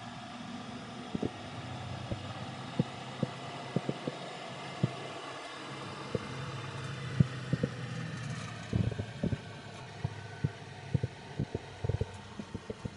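Suzuki mini truck driving in fifth gear down a hill, heard from inside the cab with the windows open: a steady low engine hum and road noise. Irregular sharp clicks and knocks come throughout, more of them in the second half.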